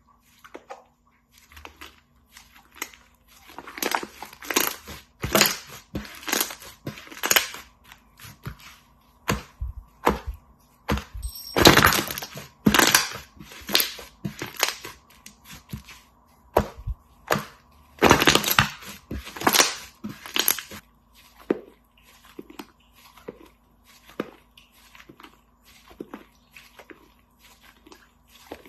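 Slime being squeezed and pressed by hand, giving a run of short crunchy crackles and squishes in clusters, loudest near the middle of the stretch.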